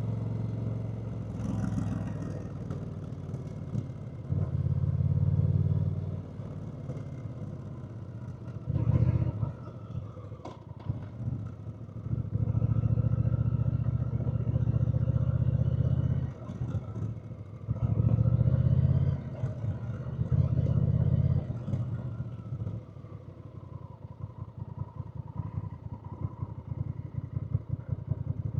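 Honda Rebel 1100's parallel-twin engine running while riding. About five stretches of louder throttle alternate with quieter cruising.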